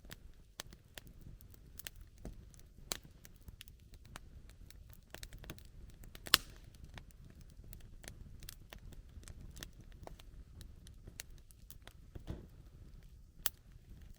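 Wood campfire crackling, with scattered sharp pops and snaps over a low steady rumble; one pop about six seconds in is much louder than the rest.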